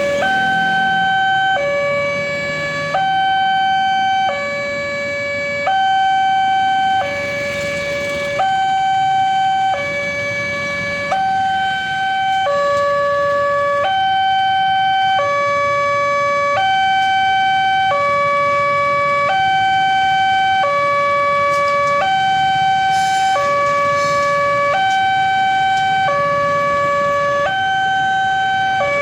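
Level crossing warning alarm sounding a steady electronic two-tone signal, alternating between a higher and a lower tone about every second and a half, which signals that a train is approaching and the crossing is closed.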